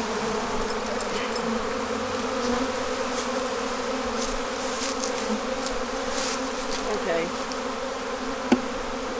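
Honeybees buzzing steadily around a hive, a dense continuous hum. A single sharp click sounds near the end.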